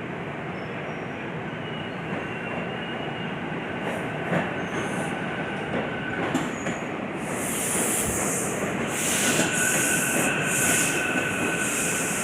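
SEPTA regional rail train moving along the platform, its wheels squealing in steady high tones, with a few sharp clicks of wheels over rail joints; the sound grows louder, and from about the middle pulsing high-pitched hissing joins in.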